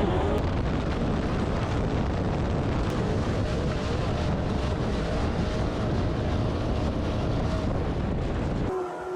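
Off-road vehicle engine running hard, heard from on board under heavy wind rumble on the microphone, its pitch wavering. Near the end the sound cuts abruptly to a quieter, steady held tone.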